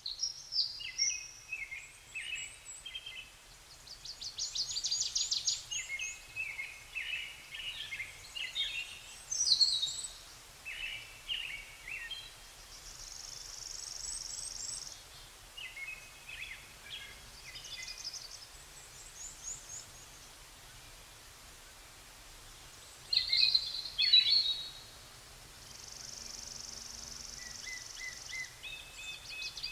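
Wild songbirds singing in spring: a series of varied song phrases with chirps and rapid trills, and twice a longer, steady buzzy trill held for about two seconds, over a faint low outdoor rumble.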